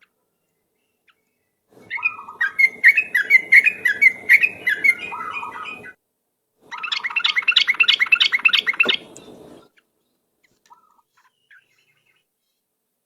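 Sooty-headed bulbul (trucuk) singing in a lure recording: two bouts of fast repeated chattering notes, the first about four seconds long and the second about three, with a short pause between.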